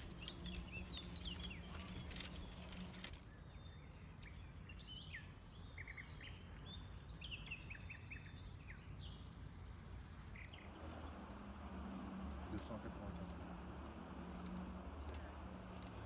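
Small birds chirping in quick, twittering notes for several seconds, over a low hum and scattered faint clicks. About ten seconds in, the birds give way to a steady hiss.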